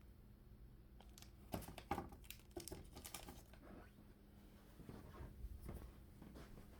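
Faint rustling with scattered light clicks, heaviest about two to three seconds in and again around five to six seconds.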